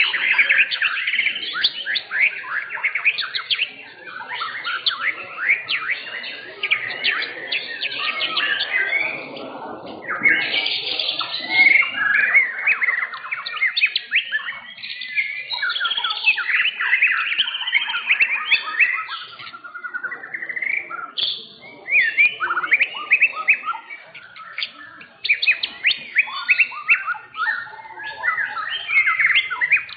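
White-rumped shama singing a long, rapid run of varied whistles, trills and chattering phrases, broken by a few brief pauses.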